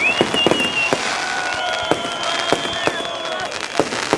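Fireworks display: a rapid, irregular run of sharp bangs and crackles, several a second, with long, steady, high whistles sounding over them.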